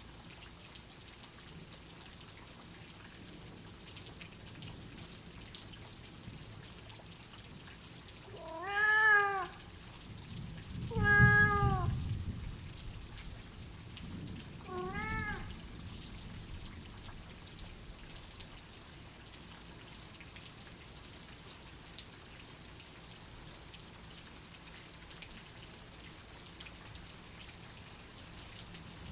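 Steady rain falling, over which a domestic cat meows three times, about a third of the way in and twice more within the next six seconds. Each meow rises and falls in pitch, and a brief low rumble comes with the second, loudest one.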